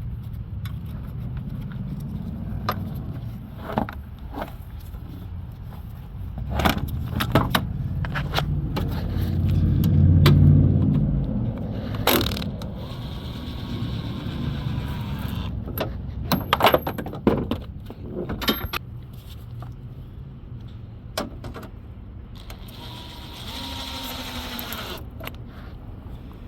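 2011 Ford Focus engine running with a steady low rumble that swells briefly about ten seconds in, and scattered metallic clicks and clinks over it.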